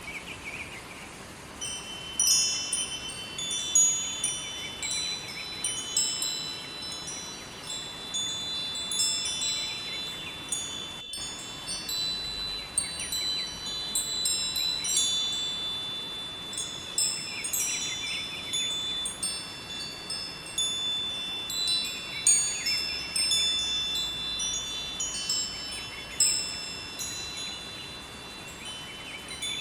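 Wind chimes ringing in irregular clusters of high, overlapping tones, over the steady rushing of a river.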